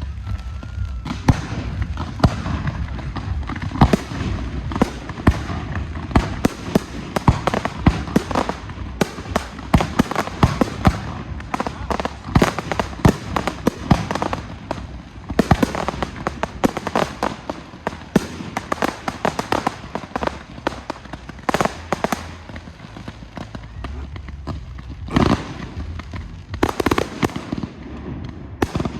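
Professional fireworks display: a dense barrage of shell bursts and crackling, many sharp bangs a second without a break, with a louder cluster of reports near the end.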